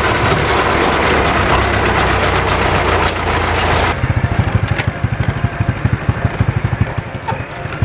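Diesel tractor engine running loud and steady. About four seconds in, the sound changes abruptly to an even, pulsing chug of engine firing strokes.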